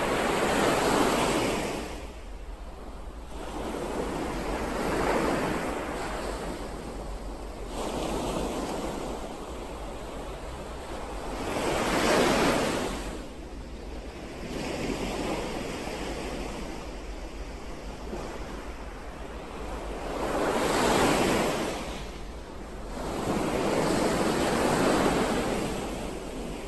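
Sea waves breaking and washing in, a surge of surf every few seconds that swells and falls away, about six in all.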